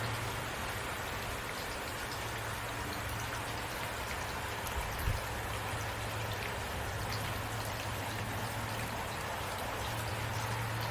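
Steady rain falling, an even hiss with scattered drop ticks over a low steady hum, and a soft thump about five seconds in.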